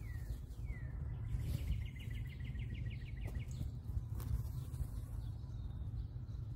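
A steady low outdoor rumble with a small bird calling over it: two short downward chirps, then a fast, evenly spaced trill lasting about two seconds.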